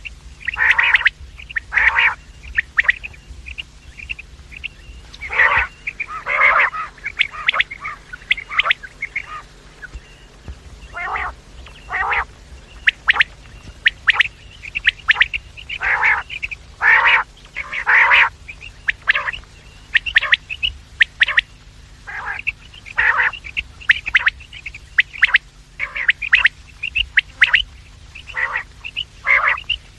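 Quail calling over and over: short, harsh calls, often one to two a second, with a brief lull a few seconds in.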